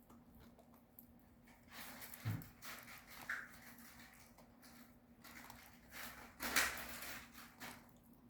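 Puppy gnawing on a dog chew: faint, irregular scraping and crunching with a few knocks, the loudest scuffle about six and a half seconds in.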